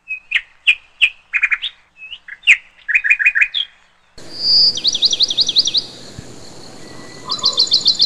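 Songbird chirps and calls: short, sharp chirps in quick clusters, then, about halfway through, two fast runs of repeated rising-and-falling whistled notes over a background hiss.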